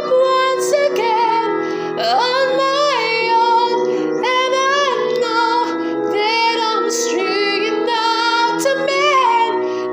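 A song: a woman's high singing voice, sliding between held notes, over sustained instrumental accompaniment.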